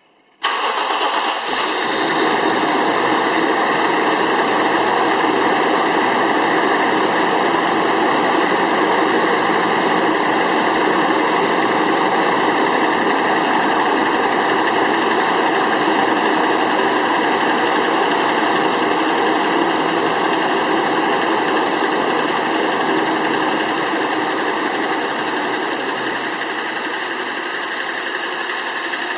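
Toyota 1G-FE straight-six engine started cold about half a second in, then running at cold idle with a loud, steady fan noise over it that eases off slightly in the last few seconds.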